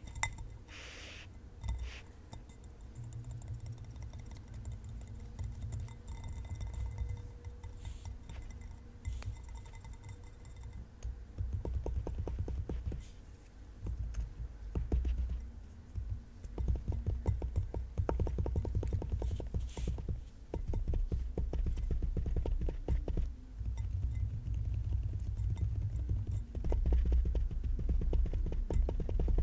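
Fingers tapping on objects: at first a few separate taps under a steady ringing tone, then fast, dense tapping from about twelve seconds in, in runs with short pauses.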